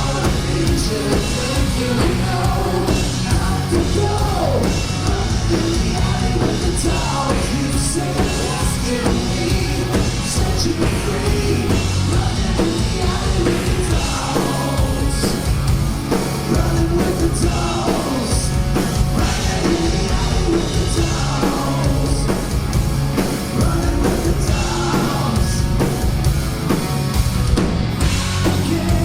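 Live hard rock band playing full out: distorted electric guitars, bass and drums, with a sung vocal line over them.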